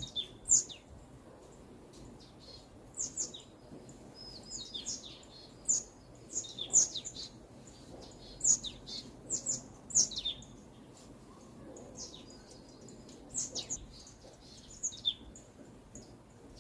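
Small songbirds chirping: short, high, quick notes that sweep down in pitch, scattered irregularly, with a couple of brief rapid trills. Beneath them is a faint steady background hiss.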